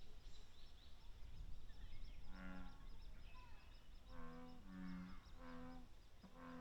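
Low, repeated croaking calls of a frog at the pond. One call comes about a third of the way in, then a run of four more toward the end, over a faint steady high ticking and a low rumble.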